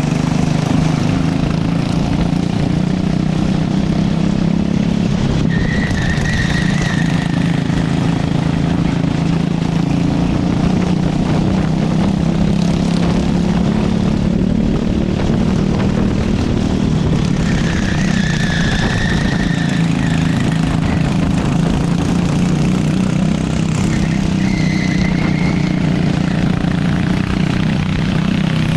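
Racing kart's small engine running at racing speed, its pitch rising and falling as it accelerates and slows through the laps. Brief high squeals come three times: about six seconds in, around eighteen to twenty seconds, and near twenty-five seconds.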